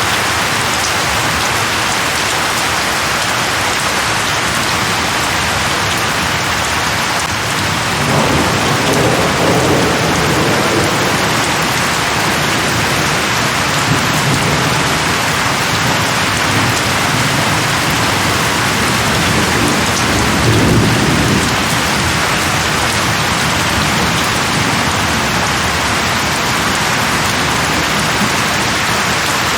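Steady heavy rain falling, with rolls of thunder rumbling low beneath it, about eight seconds in and again around twenty seconds.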